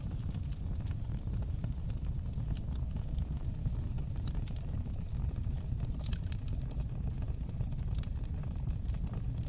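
Fire burning in a fireplace: scattered sharp pops and snaps, bunched more thickly about six seconds in, over a steady low rumble of the flames.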